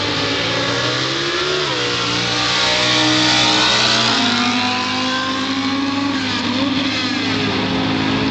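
Drag-racing car engines under full acceleration down the strip. The engine pitch climbs and drops back several times as the cars shift gears.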